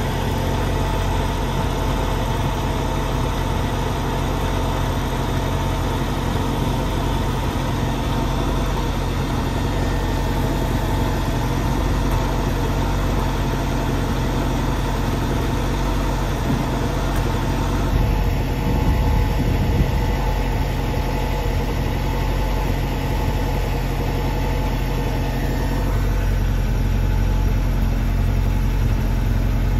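1993 Saab 900 Turbo's turbocharged four-cylinder engine idling steadily, heard from beneath the car along its exhaust.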